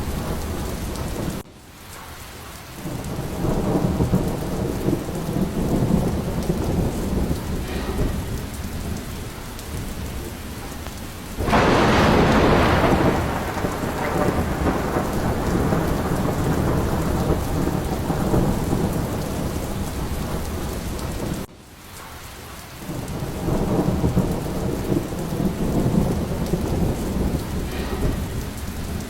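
Steady heavy rain with rolling thunder rumbles. About eleven seconds in, a sudden close thunderclap cracks and rumbles away over a couple of seconds. Twice, near the start and about two-thirds through, the sound drops abruptly and then swells back.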